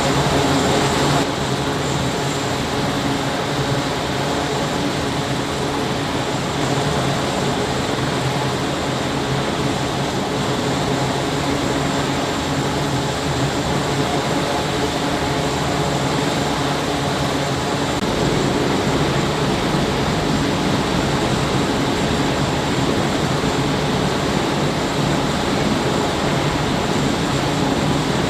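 Steady mechanical roar of running machinery or engines, with a slight change in its character about a second in.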